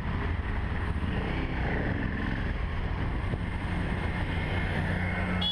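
Steady motor vehicle noise: an engine hum under road and wind noise, running evenly.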